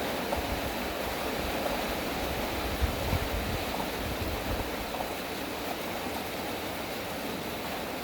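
Heavy rain falling steadily, with a low rumble of thunder swelling about three seconds in and fading over the next two seconds.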